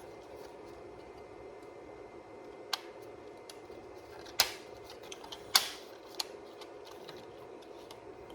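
A handful of sharp, separate plastic clicks and taps as the stacked plastic pin layers of a Chrysler TIPM power module are handled and pressed back together, the loudest about halfway through, over a steady low hum.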